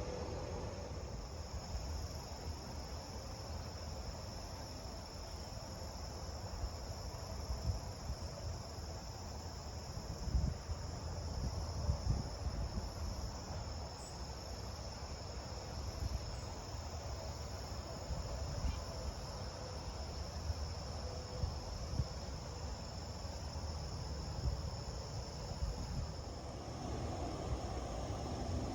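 Wind buffeting the phone's microphone in uneven low rumbling gusts, over a steady high-pitched insect drone.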